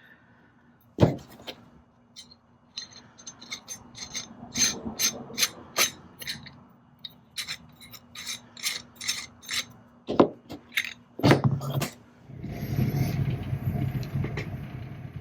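Hand work on a small tool at a bench: a sharp knock, then a run of short scraping or filing strokes about one to two a second, then more knocks. About three-quarters of the way through, a steady rushing, whirring noise begins.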